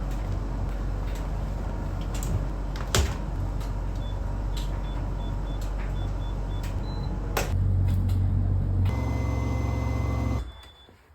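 Hoover laundry machine running with a steady low hum and a few clicks, with a faint run of short high beeps in the middle. The hum gets louder about seven and a half seconds in, then cuts off suddenly near the end.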